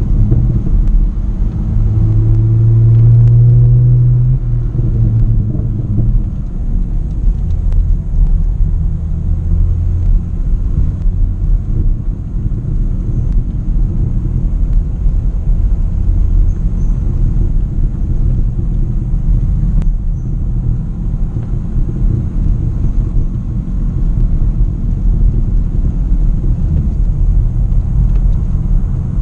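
Straight-piped BMW E90's exhaust droning as the car drives. About two seconds in it swells louder for a couple of seconds with a rise in revs, then settles into a steady low drone.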